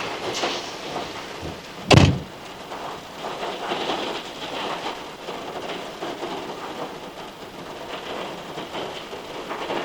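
Rain falling steadily, with one loud, sharp knock about two seconds in.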